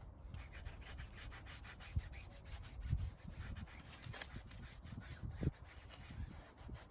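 Hand-wiping sounds: a towel or applicator rubbed over a surface in short scratchy strokes, with scattered light clicks and a few soft low thumps.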